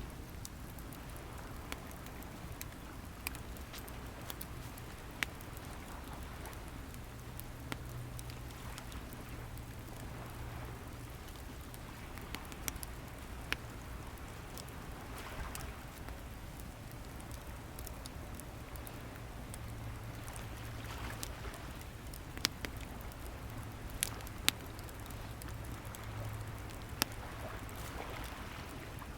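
Wood fire crackling, with scattered sharp pops, over waves washing in and drawing back in soft swells every few seconds. A low steady hum runs underneath.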